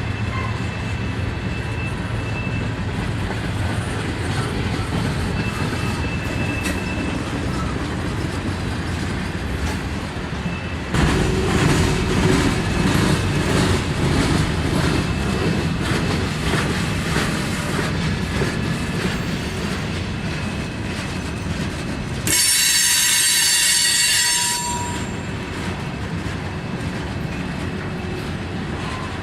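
Freight train rolling past: a steady rumble of railcars with faint wheel squeal, getting suddenly louder about eleven seconds in. A shrill, high wheel squeal sounds loudly for about two seconds a little after twenty seconds in.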